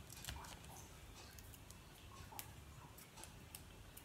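Near silence with a few faint, light ticks and clicks of small paper craft pieces being handled while a foam adhesive dimensional is put on a die-cut paper bird.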